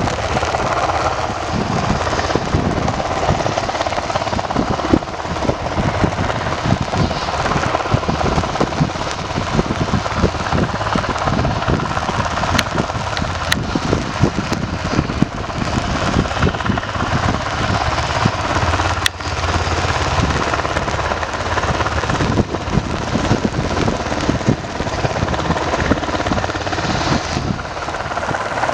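UH-60 Black Hawk helicopter running close by: a steady turbine noise with fast rotor-blade chop underneath.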